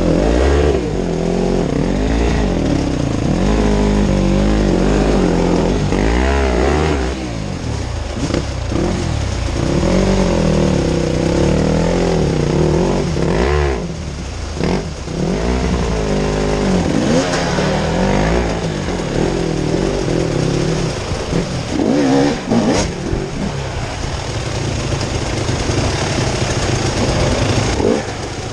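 Off-road motorcycle engine running, its revs rising and falling again and again as the throttle is opened and closed.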